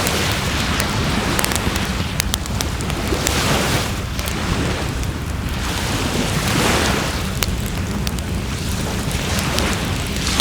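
Waves washing up a shore, the rush of surf swelling and fading every two to three seconds, with a wood fire crackling in sharp snaps and pops throughout.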